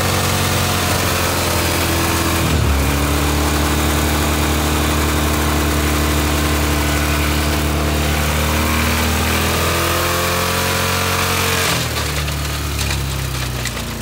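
Pickup truck's engine held at high revs during a tire-smoking burnout, a steady engine note over the hiss of spinning tires. The pitch dips briefly about two and a half seconds in and drops near the end.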